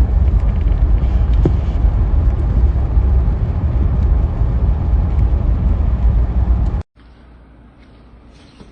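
Loud, steady low rumbling noise that cuts off suddenly about seven seconds in, leaving a faint hiss.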